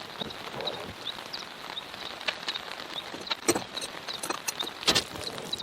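Steady rain pattering, with scattered louder drips and taps, a couple of sharper ones in the second half.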